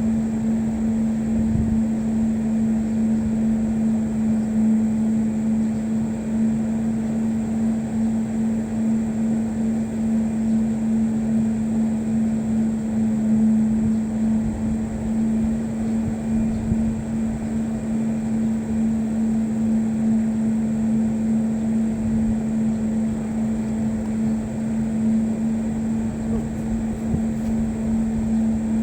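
Steady mechanical hum at one constant low pitch, unchanging throughout, over a rushing background noise.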